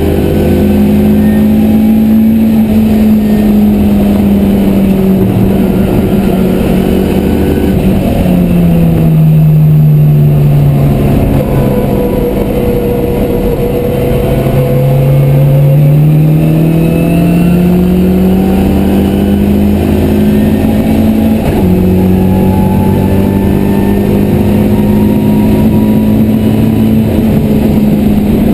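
Ford Zetec four-cylinder engine in a Mk1 Escort track car, heard onboard running hard at high revs. The engine note drops about eight seconds in and stays low for a few seconds, then climbs steadily as the car accelerates, with a step in the note about twenty-one seconds in.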